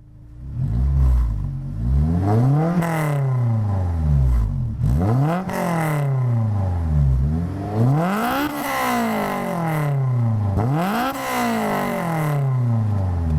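Honda S2000's inline-four, fitted with a Spoon N1 exhaust, free-revving: four blips that each climb quickly to a high-pitched peak and fall back.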